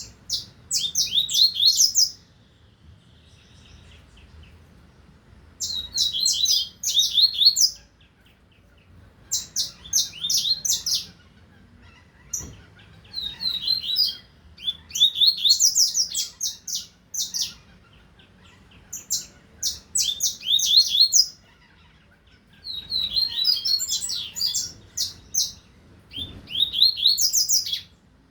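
Double-collared seedeater (coleiro) singing: about seven short phrases of rapid, high, twittering notes, each about two seconds long, repeated with brief pauses.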